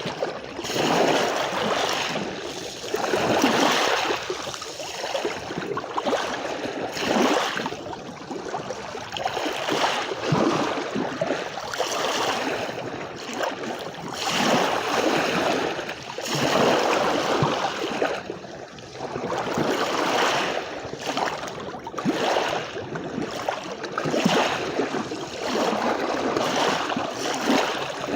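Sea waves washing onto a beach, the surf swelling and easing every two to four seconds in a steady rolling wash.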